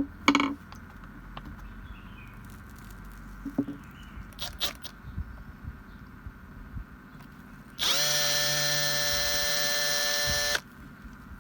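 Knocks and clicks of a tool being handled, then a small electric power-tool motor that runs at a steady speed for about three seconds and cuts off.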